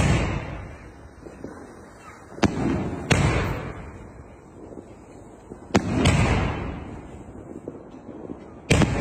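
3-inch gold titanium willow fireworks cake firing shots about every three seconds, four in all. Each is a sharp report followed by a booming burst that rumbles and fades.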